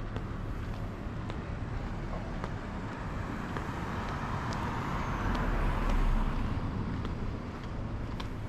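Street traffic outdoors, with a car passing close by, swelling and fading about five to six seconds in.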